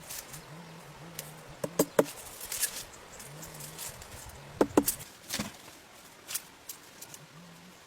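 A few sharp knocks and taps, two close together about two seconds in and a cluster near the middle, over a low repeated cooing.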